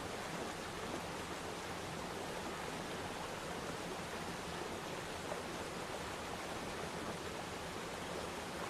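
Waterfall: steady rush of falling water.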